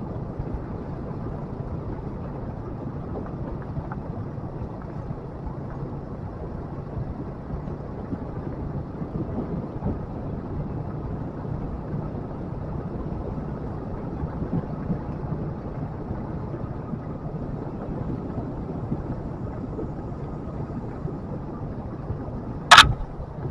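Motorcycle engine running steadily with a low hum, under wind and road noise. Near the end comes one brief sharp crack, the loudest sound.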